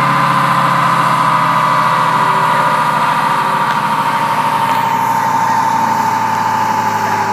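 A truck engine running steadily and loudly, its pitch slowly easing down.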